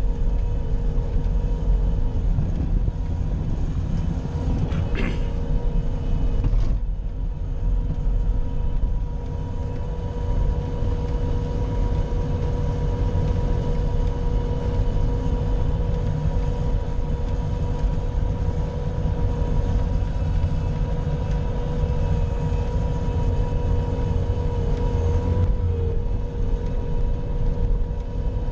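Bobcat skid-steer loader's diesel engine running steadily under load while plowing snow, a low rumble with a steady whine over it.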